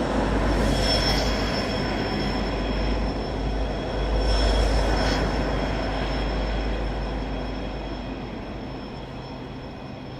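Norfolk Southern train passing with a low rumble and steady high-pitched wheel squeal; it swells twice and then slowly fades near the end.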